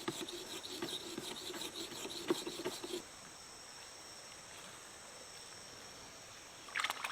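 Repeated rasping, scraping strokes for about three seconds over a steady high-pitched insect drone. The rasping stops abruptly, leaving only the drone, and a brief rustle comes near the end.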